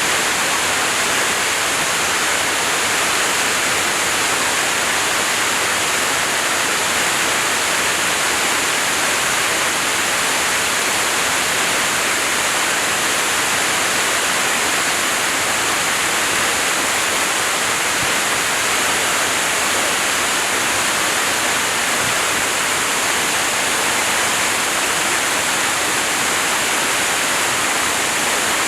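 Shiraito Falls, a waterfall pouring into the Shiba River: a steady, unbroken rush of falling water with a hissing edge.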